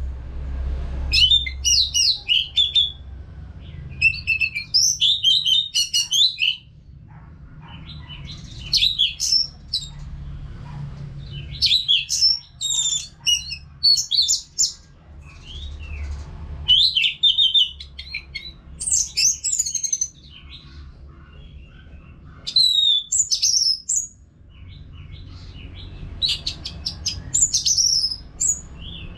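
Orange-headed thrush singing nonstop: a string of short, varied, high whistled and chirping phrases, one every couple of seconds with brief pauses between them.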